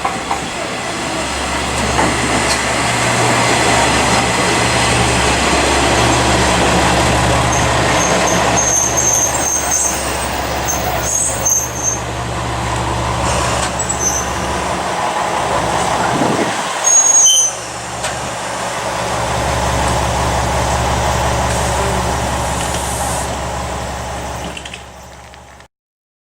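Diesel railcar's engine running steadily with rail running noise as the train moves through the station, with a few short high-pitched squeals. The hum briefly drops away about two-thirds through, then picks up again; the sound cuts off abruptly near the end.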